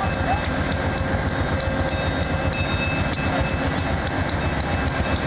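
VIA Rail P42DC diesel locomotive running with a steady low rumble, over a rapid, regular ticking of about three to four a second.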